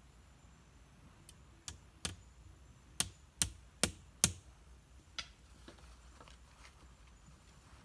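A series of about eight sharp knocks of a tool striking wood, the loudest coming in a quick run of four about three to four seconds in.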